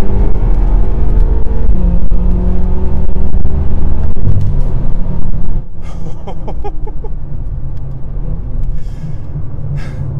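The 4.4-litre S63TU twin-turbo V8 of a tuned BMW M6 with catless downpipes and a resonator delete, accelerating hard at full throttle, with a gear change about two seconds in. A little before six seconds in the throttle is lifted and the engine drops to a quieter, steady drone.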